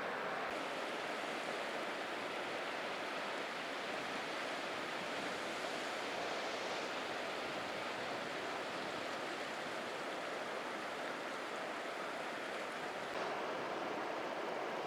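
Sea surf washing onto the shore: a steady, unbroken rush of waves with no separate breakers standing out.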